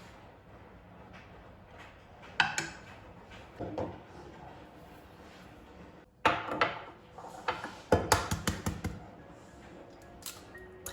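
Household items being handled and set down: a few separate knocks and clatters, then a quick run of rattling clatter in the second half, like containers or dishes put into a cupboard.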